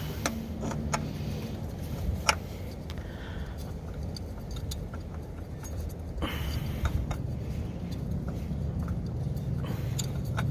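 Scattered light clicks and a short scrape from a new oil filter being handled and threaded onto its mount by hand, over a steady low hum.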